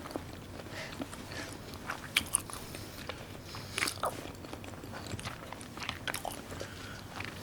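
Close-up eating sounds of a person chewing food, with scattered short wet smacks and clicks; the strongest come about two seconds and about four seconds in.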